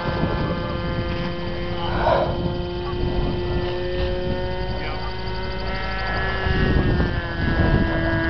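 Propeller aircraft engine running steadily with a droning tone, the pitch dipping slightly about six and a half seconds in, over a low rumble.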